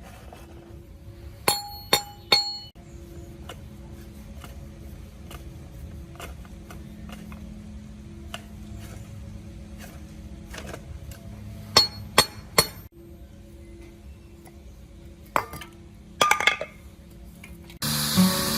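Metal parts clinking against each other as they are handled, in three clusters of sharp clinks; the first clinks ring on briefly. Faint background music runs underneath, and near the end a loud hissing noise comes in.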